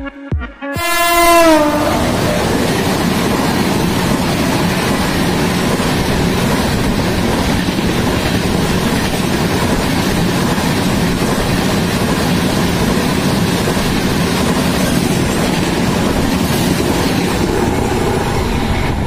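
Train running at speed, a steady loud rush and rumble of wheels on rails, heard from a moving coach as other trains pass alongside. About a second in, a train horn sounds briefly and drops in pitch as it goes by.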